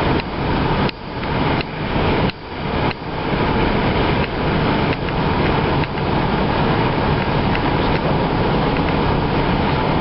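Steady road and engine noise heard from inside a small car driving on a snowy road. In the first three seconds the sound drops out suddenly and comes back several times, then it runs on evenly.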